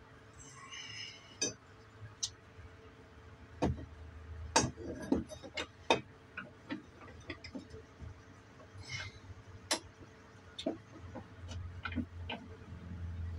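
Irregular clicks, taps and knocks of tools and hard objects being handled and set down on a workbench, with a few louder knocks about four to six seconds in.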